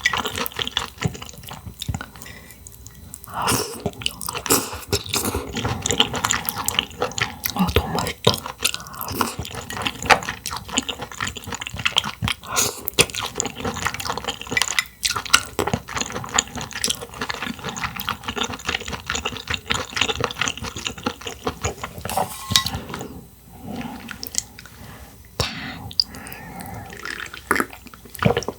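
Close-miked eating of Hangdal clams: wet chewing and liquid mouth sounds with many small sharp clicks, easing briefly near the end.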